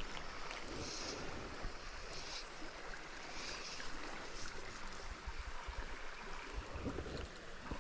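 River water flowing steadily, with occasional low rumbles.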